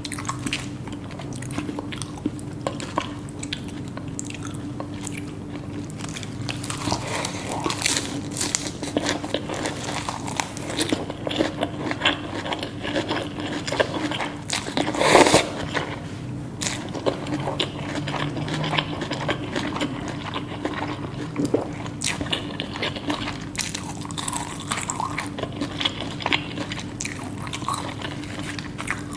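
Close-up eating sounds: irregular crunchy bites and chewing, with one louder crunching bite about halfway through, over a steady low hum.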